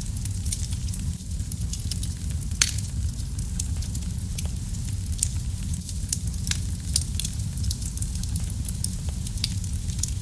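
Wood fire crackling: many small irregular pops and snaps over a steady low rumble of burning, with one louder pop about two and a half seconds in.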